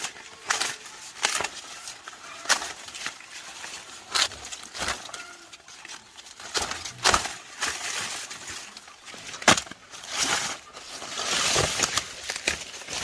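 Irregular sharp snaps and cracks over dry rustling, as of corn being harvested by hand: ears snapped off dry stalks among crackling leaves. The rustling swells for a second or so near the end.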